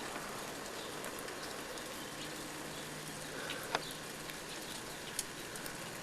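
Steady patter of water drops falling around a snow-laden backyard, with two short ticks about two-thirds of the way through.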